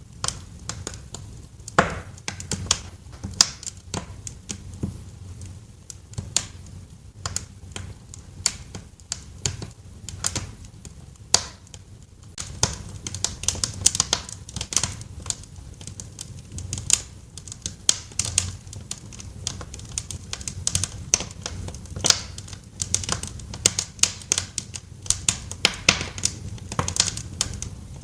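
Wood fire crackling in a fireplace: irregular sharp pops and snaps over a low steady rumble of the flames, the crackles growing busier from about halfway through.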